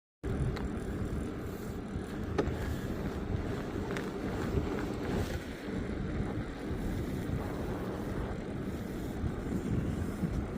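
Steady low rumble of a vehicle on the move, with a few faint clicks over it.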